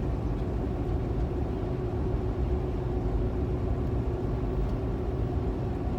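Steady low rumble of a 2015 Kenworth T680 semi-truck cruising down the highway, engine drone and road noise heard from inside the cab, with a faint steady hum.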